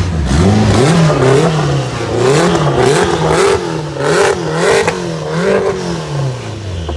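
Car engine revved over and over, its pitch rising and falling several times in a row, about once a second.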